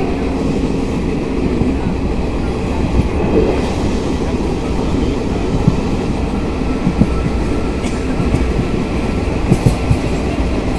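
Indian Railways passenger train running along the track, heard from an open coach doorway: a steady loud rumble of wheels on rail, with a few sharp clacks from the wheels in the second half.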